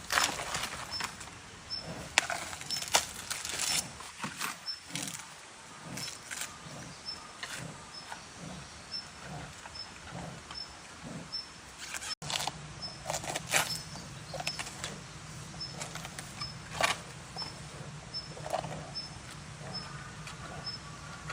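A giant panda chewing bamboo: irregular sharp cracks and crunches as the stalks are bitten and split, the rattling sound of a panda eating.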